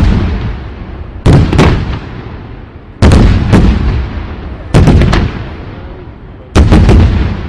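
Fireworks bursting overhead: four heavy booms about every two seconds, each followed closely by a couple of sharp cracks and a long rumbling echo that dies away.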